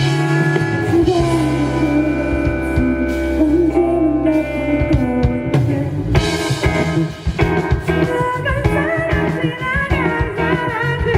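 Live indie rock band playing: electric guitar chords ring over a held bass line, with the drums growing busier about halfway through and bending guitar or vocal lines near the end.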